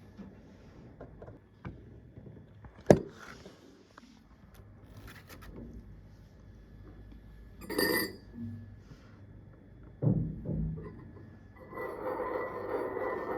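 Small objects tapped and handled at close range: a sharp click about three seconds in, a ringing clink a little before eight seconds, dull knocks around ten seconds, then steady scraping in the last couple of seconds.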